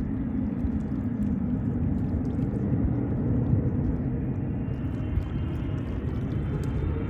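Jet airliner engines rumbling steadily, with a faint whine rising in pitch near the end.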